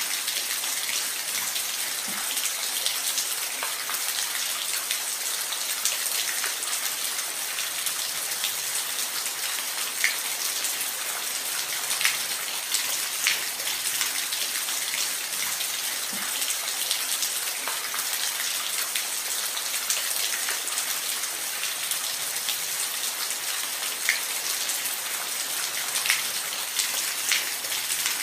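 Steady rain, an even hiss with occasional louder single drops ticking through it.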